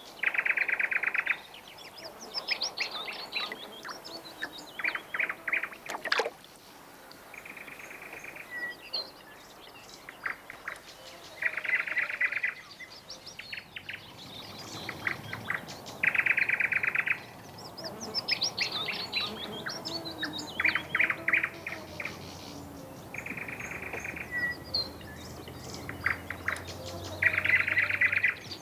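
Songbirds singing: a short, rapid trill repeats every few seconds, with quick chirps and falling whistles between.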